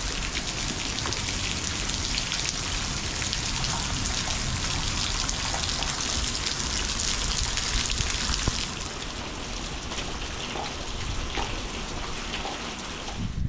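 Heavy rain falling steadily, a dense hiss with many separate drop impacts close by, some coming off the edge of the shed roof. It grows a little softer about nine seconds in.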